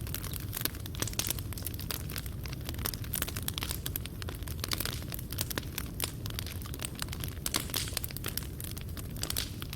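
Wood fire in a fireplace burning steadily, with a low continuous rumble of flame and frequent irregular crackles and pops of burning wood and embers.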